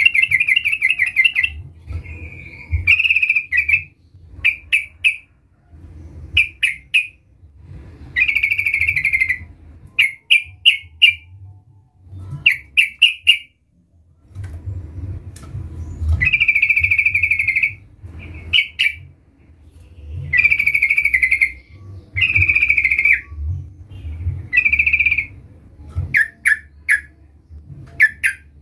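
Yellow-vented bulbul (trucukan) singing repeatedly: short clusters of three or four quick bubbly notes alternate with longer warbled phrases of about a second, every second or two, over a low rumble.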